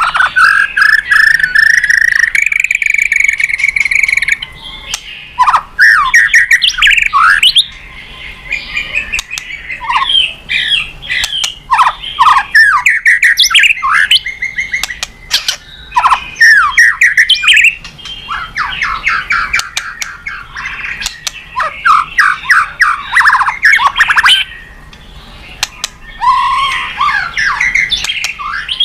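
White-rumped shama (murai batu) singing loud, varied song: a long rising then held whistle at the start, then rapid phrases of sweeping notes and trills mixed with sharp clicks.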